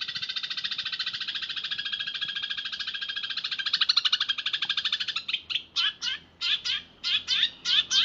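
Eurasian tree sparrow giving a fast, tightly packed roll of rapid chirps. About five seconds in it breaks into separate sharp chirps, roughly two a second.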